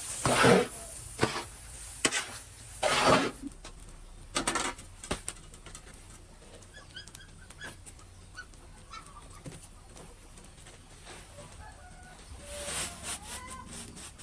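Capon chickens clucking and calling, with short high chirps in the middle and a louder call near the end. There are several loud noisy bursts in the first five seconds.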